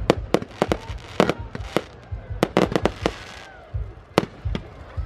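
Large bonfire crackling with loud, irregular sharp pops and cracks, and a brief hiss about two and a half seconds in.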